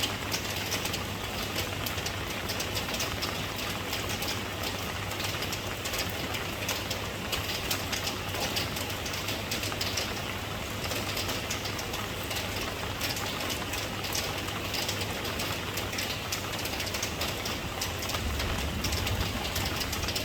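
Steady rain falling, with many small drops ticking close by over a low, steady rumble.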